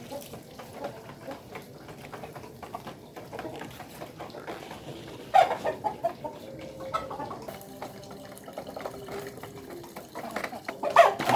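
Ayam kampung (native village chickens) clucking in a coop. Louder, sudden calls come about five seconds in and again near the end.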